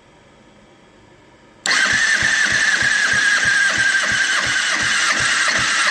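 2009 Kawasaki ZX-6R inline-four engine turned over on its electric starter for a compression test, without firing. A starter whine with about four even compression pulses a second starts suddenly about two seconds in.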